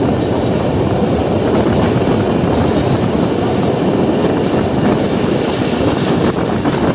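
Mohenjo Daro Express passenger train running, a loud steady rumble of its wheels on the rails, heard from an open coach window.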